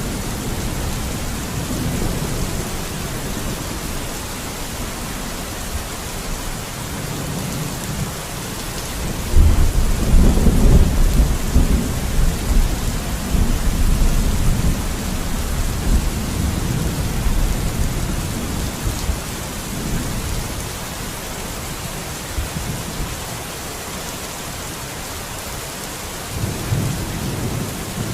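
Steady rain with rolling thunder. A deep rumble builds about a third of the way in and rolls on unevenly for several seconds, and another rumble begins near the end.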